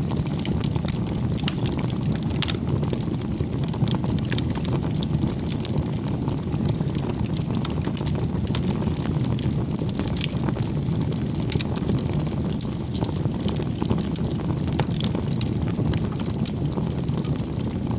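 Bonfire crackling: a steady low rumble of burning wood with frequent small pops and snaps scattered throughout.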